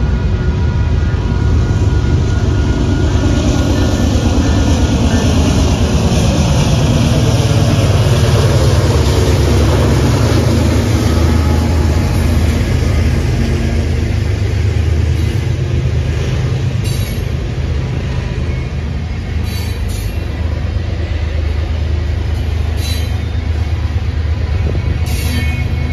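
Canadian Pacific diesel freight locomotive passing close by, its engine note dropping in pitch as it goes past, followed by a long string of freight cars rolling by with a steady heavy rumble. Short sharp clicks and squeaks come from the wheels now and then as the cars pass.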